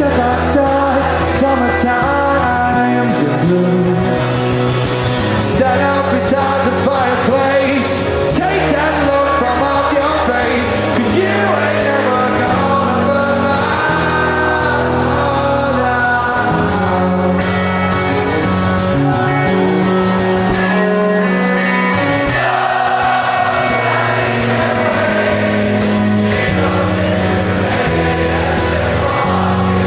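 Live rock band playing at full volume with singing over it: electric band backing with a steady bass line and sung melody.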